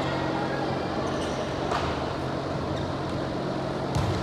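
Steady hum and noise of a sports hall during a volleyball game, with two brief sharp knocks a couple of seconds apart.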